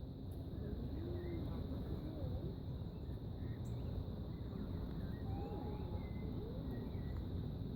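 Faint bird calls, short whistled chirps and glides, over a steady background with a constant high thin tone.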